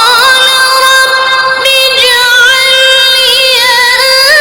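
A high voice in melodic Quran recitation, holding long, nearly steady notes with small ornamented turns about two seconds in and again near the end.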